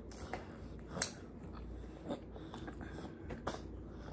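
Quiet chewing and mouth sounds of someone eating, with a few soft clicks; the sharpest click comes about a second in.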